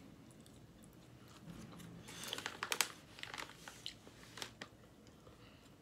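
A person biting into and chewing a crunchy snack close to the microphone: a quiet start, then a run of sharp crunches about two seconds in that dies away after a couple of seconds.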